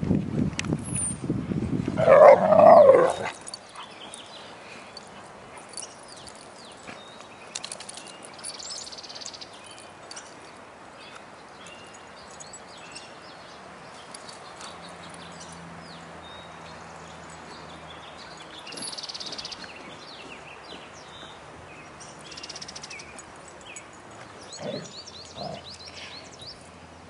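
Alaskan malamutes vocalizing in play: a loud burst of wavering growl-like 'talking' in the first few seconds. Then it goes mostly quiet, with a couple of short vocal grunts near the end.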